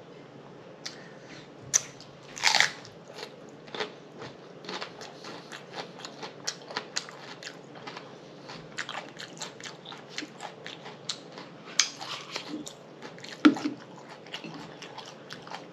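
Close-miked chewing of a crunchy fresh jalapeño stuffed with pineapple cream cheese: many short crisp crunches, a few of them louder bites.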